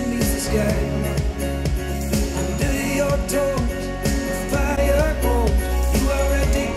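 Pop song with a singing voice and strong bass, played through Elac Debut Reference DBR62 bookshelf speakers driven by a Denon PMA-600NE amplifier and picked up by room microphones; near the end the same track carries on through Yamaha HS8 studio monitors.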